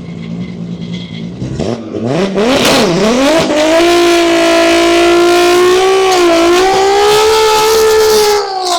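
A drag car's engine idling, then revved up with a few blips about two seconds in and held at high revs for about five seconds before dropping off near the end.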